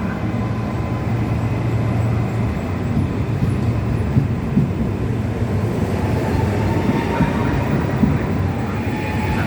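Coupled ETR 421 double-deck electric multiple units running, with steady low rumbling wheel-and-track noise and a few knocks. A faint thin whine comes in about six seconds in.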